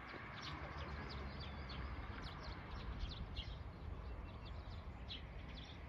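Faint chirping of small birds: many short, high calls scattered throughout, over a low steady rumble.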